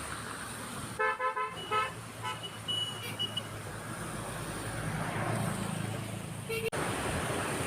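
Vehicle horn tooting, a longer blast then a short one about a second in. It is followed by a low engine hum that grows louder and cuts off suddenly near the end.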